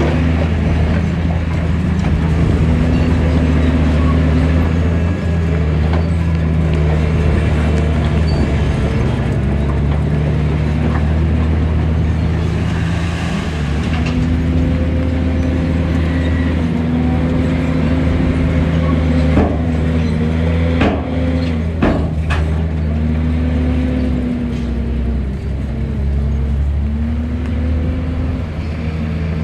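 Diesel engine of heavy earthmoving machinery running under working load, its pitch rising and falling as it works. A few sharp knocks come about two-thirds of the way through.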